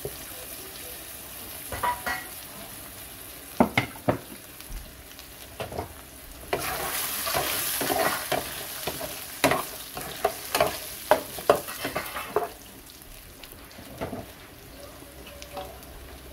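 Potato chunks frying in hot oil in a pan with whole spices, a steady sizzle that swells louder for several seconds through the middle. Sharp clicks and knocks of a utensil against the pan come now and then.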